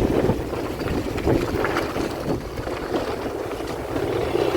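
Wind buffeting the microphone on the move, with a vehicle's rumble underneath.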